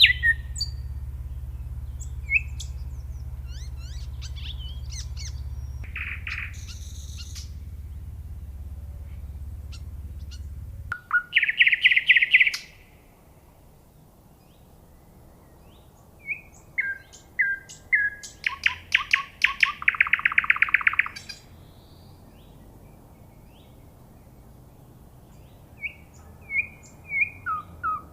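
A songbird singing varied whistled phrases, with pauses between them and a long rapid trill past the middle. A steady low hum runs under the song for about the first third, then cuts off.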